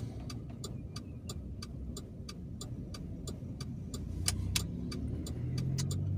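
Car engine and road rumble while driving, with a fast, regular ticking of about four clicks a second. The engine tone rises and grows louder near the end.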